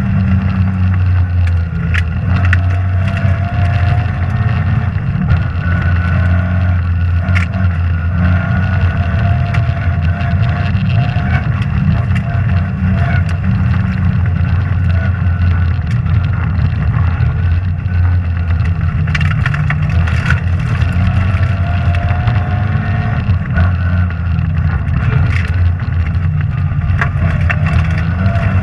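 Rally car engine running hard on a stage, heard from inside the car, with stones and gravel knocking on the underside throughout.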